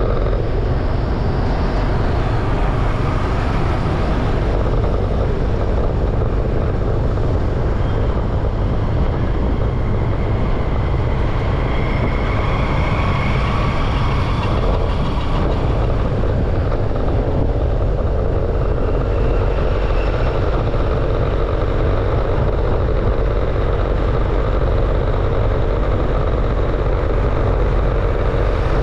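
Steady road noise and wind rumble from riding a bike through street traffic, the low rumble loudest and unbroken. Faint passing-vehicle sounds come through about halfway in.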